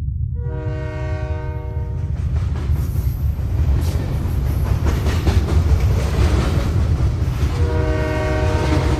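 Train horn sounding a steady blast of about a second and a half, then the rumble and clatter of a passing train, with a second horn blast near the end, all over a constant deep rumble.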